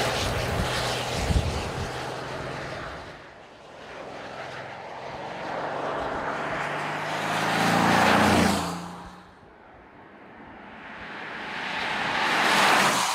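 2025 Bentley Continental GT Speed's hybrid 4.0-litre twin-turbo V8 driving past at speed, with tyre noise. The engine note swells and fades three times as the car goes by: near the start, about eight seconds in, and again near the end.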